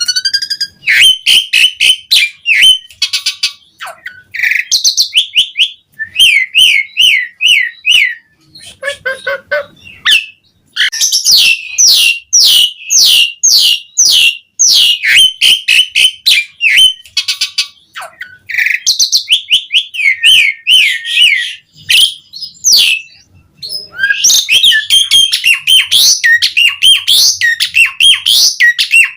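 Pied starling (jalak suren) singing loudly and continuously, in long phrases of rapid, sharply falling whistled notes with a few short pauses between them.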